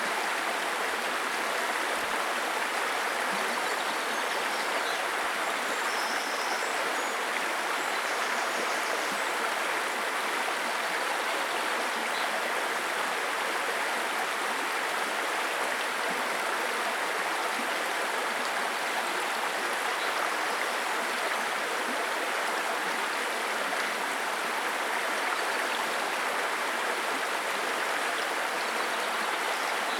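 A babbling brook: shallow water running and splashing over stones in a steady, even rush.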